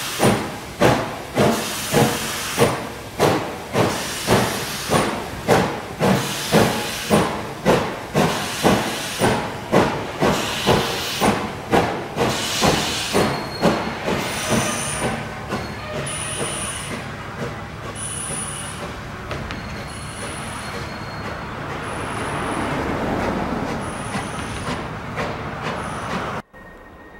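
Steam locomotive No. 98, a Baldwin 4-4-0, working with a steady exhaust chuff about twice a second that fades after about twelve seconds into the rolling noise of the train. The sound cuts off suddenly near the end.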